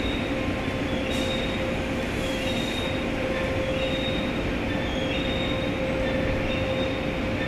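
Automatic car wash machinery running: a steady mechanical rumble and hum, with short high squeals coming and going every second or so.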